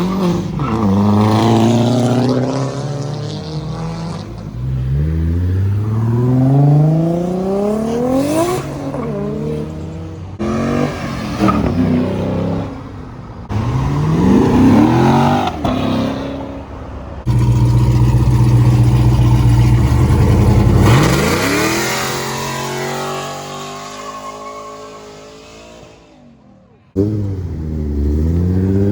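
Car engines revving and accelerating hard, the pitch repeatedly climbing and falling as cars pull away, cut together from several short clips. A steady loud engine note is held for a few seconds past the middle before another rising sweep.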